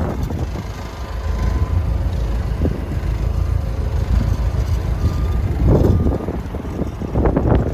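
Motor vehicle engine running with a steady low rumble, louder for a moment near the end.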